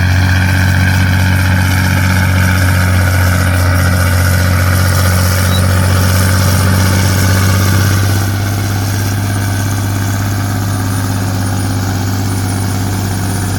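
Dump truck engine running steadily at a low, even pitch. It gets a little quieter about eight seconds in and then stays even.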